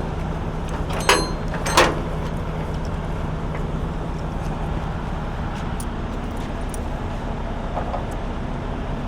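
Steady low vehicle rumble, with two sharp metallic clanks from the load's tie-down hardware about a second in and just under a second after.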